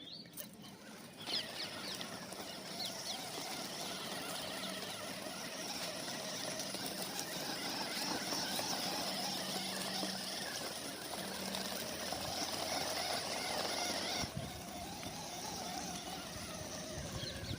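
Small electric gear motor of a homemade RC cardboard tractor running with a steady whir, stopping abruptly near the end.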